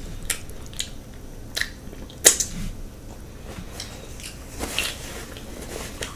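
Close-miked eating sounds: a few sharp mouth smacks and chewing clicks, spaced apart, the sharpest a little after two seconds in.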